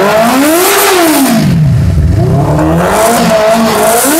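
Motorcycle engine being revved, its pitch rising to a peak about a second in, falling back, then climbing again several times.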